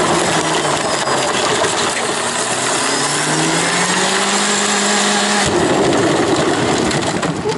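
BMW E36 engine held at high revs while its rear wheels spin on grass and dirt in a burnout. The engine note climbs slowly for about five seconds, then breaks off abruptly into a rushing noise.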